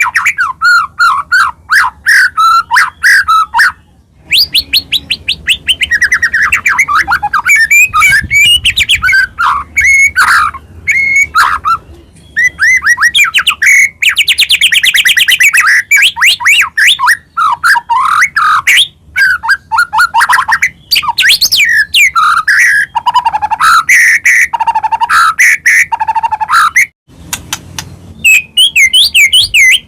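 White-rumped shama (murai batu) singing loudly: a fast, varied song of rapid trills, whistled phrases and chattering notes, with short breaks about four seconds in and near the end.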